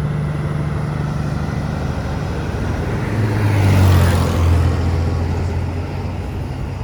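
Truck passing by on the road: a low engine rumble and tyre noise swell to a peak about four seconds in, then fade.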